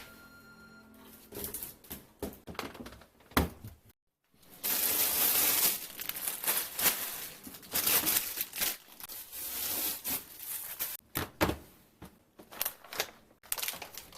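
Plastic grocery packaging being handled: crinkling and tearing, with several sharp knocks as items are set down.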